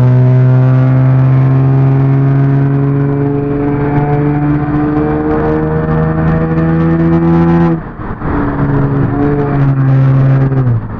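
Car engine pulling hard under acceleration, its note holding and slowly climbing for several seconds. About eight seconds in the note breaks off briefly and comes back lower and climbing again, as in an upshift, then falls away near the end.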